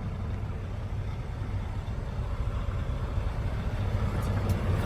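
Mack MP8 diesel engine idling steadily, a low rumble heard from inside the truck's cab.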